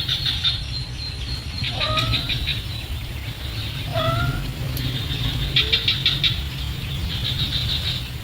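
Birds calling: short gliding notes about every two seconds over runs of rapid high-pitched chittering, with a steady low rumble underneath.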